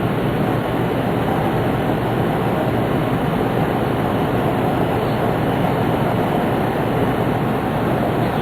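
Steady running noise of a Tohoku Shinkansen Hayate train (E2 series) at speed, heard inside the passenger cabin: an even, unbroken rumble and rush of wheels, rails and air.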